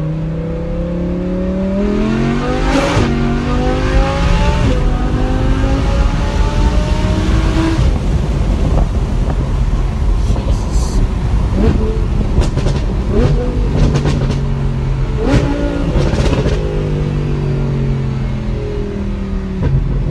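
Audi R8 V10 Plus's 5.2-litre V10 through a Brooke race exhaust, accelerating hard with the engine pitch rising, a gearshift about three seconds in, then climbing again. Off the throttle, the exhaust pops and crackles repeatedly on the overrun from its pops-and-bangs tune, then the engine settles to a steady cruise.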